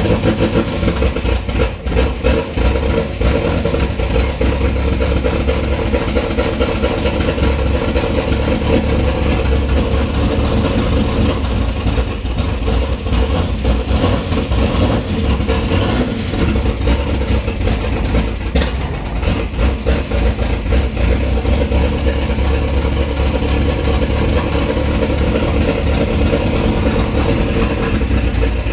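Turbocharged Holden 304 V8 running on E85, idling on its first startup, heard from inside the car's cabin.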